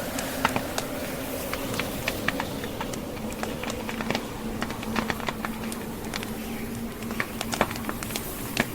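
Log fire crackling, with irregular sharp pops and snaps several times a second, over a steady low rush of blizzard wind.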